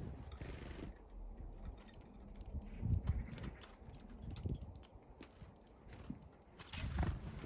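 Small birds at a window bird feeder: irregular light taps and clicks of pecking and landing on the feeder, with a few short, high calls in the second half.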